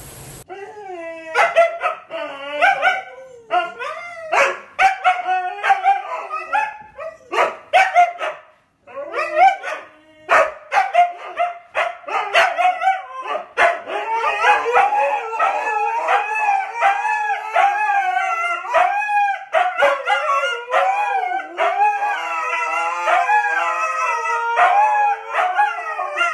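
A dog howling and yapping in a long run of short yowls that waver up and down in pitch, with a brief break about eight seconds in.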